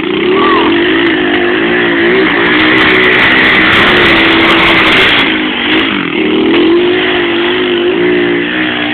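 Pit bike engine revving up sharply and held at high revs, its pitch wavering up and down, easing briefly about six seconds in and again near the end.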